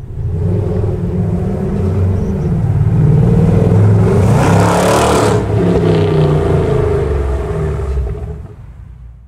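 Mercedes C63 AMG engine running through a Capristo aftermarket exhaust under load. The exhaust note builds, is loudest around the middle with a sweep in pitch and a rush of noise, then fades away near the end.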